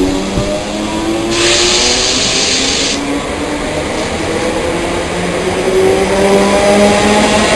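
A train pulling away, the whine of its engine or motors rising steadily in pitch. A loud hiss of air starts about a second in and stops sharply about three seconds in.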